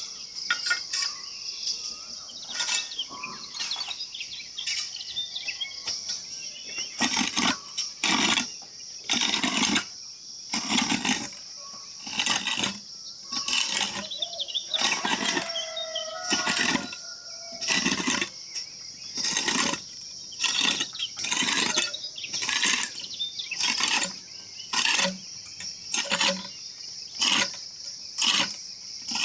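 Steady high-pitched drone of insects, with a few bird chirps. From about seven seconds in, loud strokes come roughly once a second.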